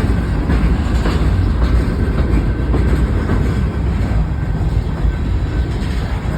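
Freight train cars rolling past close by: a steady loud rumble of wheels on rail, with irregular clicks of wheels over rail joints.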